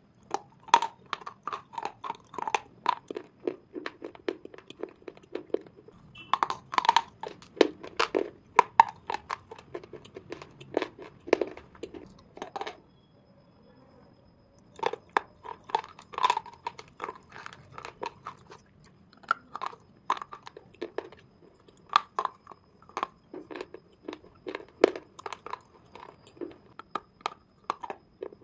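A person crunching and chewing brittle slate pencil pieces: a quick run of sharp crunches, about three a second, with a short pause about halfway through.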